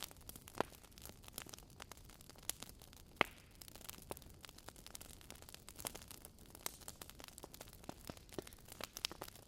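Wood fire crackling in a fireplace: irregular sharp pops and snaps over a soft hiss, with two louder pops about half a second in and about three seconds in.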